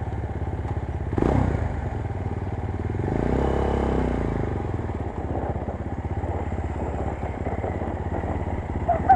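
A GX-R 250S 250cc motorcycle engine running with steady firing pulses. There is a short rev about a second in and a swell in engine sound around three to four seconds in.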